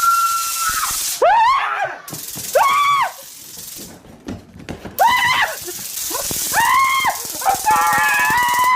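A series of high-pitched squealing cries, each rising and then falling in pitch, over a hiss that cuts in and out.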